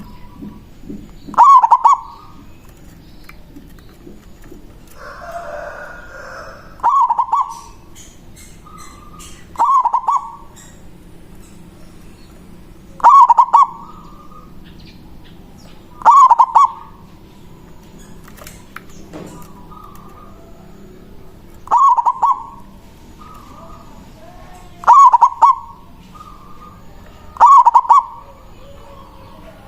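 Local zebra dove (perkutut) singing its cooing song: a short, loud phrase repeated about eight times, every few seconds, with softer coos between. It is the male's territorial song used to call rival doves.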